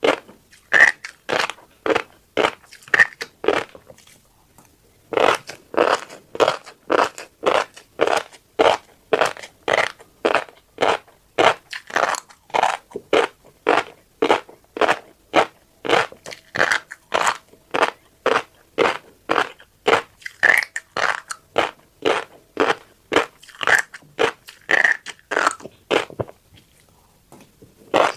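Close-up crunchy chewing of a mouthful of tiny black seeds, a steady run of crisp crunches about two to three a second, broken by two short pauses, one a few seconds in and one near the end.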